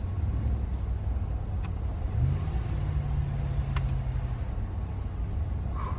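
Ram pickup truck driving, heard from inside the cab: a steady low engine and road rumble. About two seconds in, the engine note rises as the truck accelerates, then holds level for a couple of seconds.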